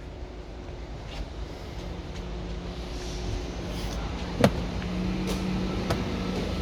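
Audi SQ7's biturbo V8 engine running with a low rumble that grows steadily louder, with a sharp click about four and a half seconds in.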